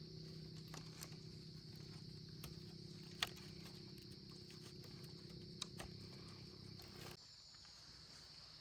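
Faint outdoor background: a steady high insect drone over a low hum, with a few sharp taps; the low hum stops suddenly about seven seconds in.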